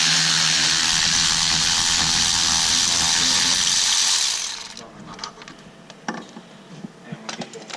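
A handheld power tool runs steadily for about four and a half seconds, driving a bolt, then winds down. A few faint clicks of handling follow.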